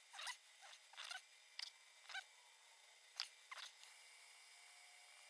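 Faint, scattered light clicks and rustles, about a dozen short separate ones, of hands handling small pieces of model scenery.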